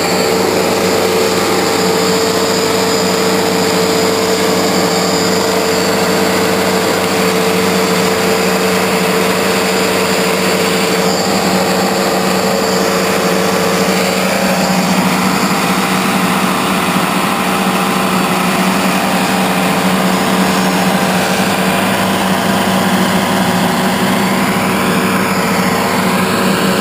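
Wood-Mizer portable bandsaw mill running steadily, its engine and band blade making a loud, even hum that holds one pitch throughout.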